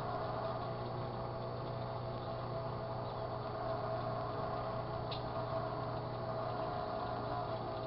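Sharp Carousel microwave oven running steadily with a low hum, a faint short click about five seconds in.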